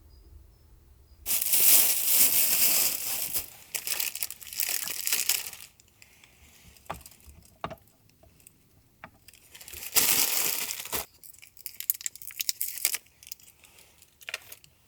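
Close crinkling and rustling of something being handled, in four bursts, with small clicks and taps in between.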